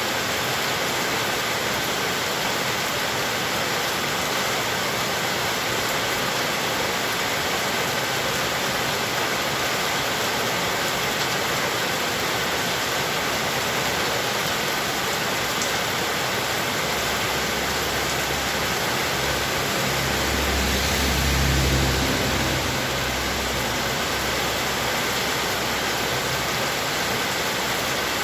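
Heavy rain falling steadily, a dense even hiss. About two-thirds of the way through, a low rumble swells for a few seconds and fades.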